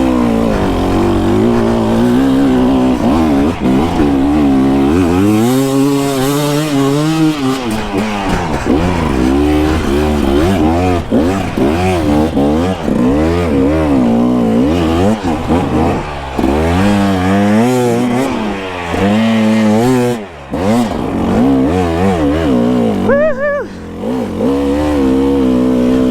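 Dirt bike engine revving hard under load, its pitch rising and falling constantly as the throttle is worked on a climb, with the throttle briefly cut twice near the end.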